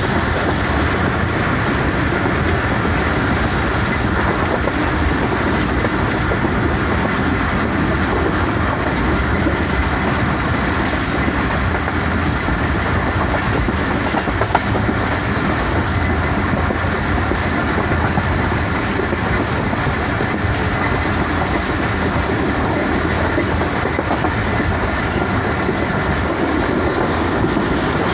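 Passenger train running steadily along the track, heard from aboard: a continuous, even rumble of the coach and its wheels on the rails.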